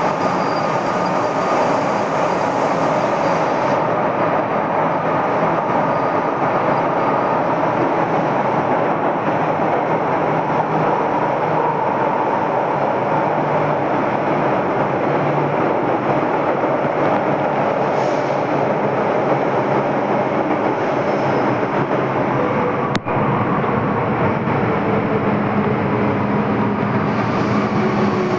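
MTR M-Train (Metro-Cammell electric multiple unit) running on the Kwun Tong Line: a steady rumble of wheels and motors with a faint, even hum under it. There is a single sharp click about three-quarters of the way through.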